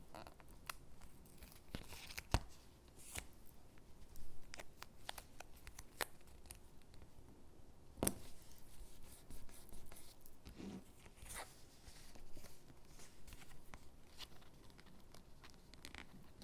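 Stickers peeled from their backing sheet and pressed onto paper cutouts: short peeling and paper rustles with scattered light taps, and a sharper tap about two seconds in and another about eight seconds in.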